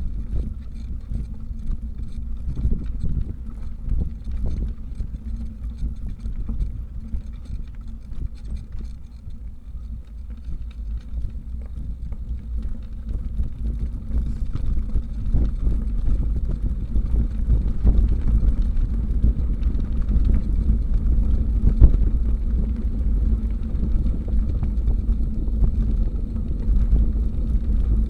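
Wind buffeting a bicycle-mounted microphone with road rumble while riding, growing louder from about halfway through as speed builds.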